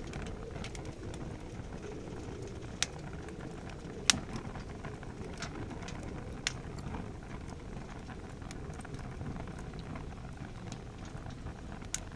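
Wood fire in a campfire fire pit burning hard, piled high with firewood: a steady low rumble of flame with a few sharp crackles and pops from the burning wood, the loudest about four seconds in.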